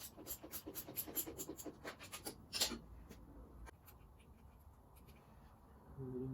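Hand ratchet clicking fast and steadily as a bolt is wound out, about six clicks a second, ending with one sharper click after two and a half seconds; then a few faint ticks and a short low hum near the end.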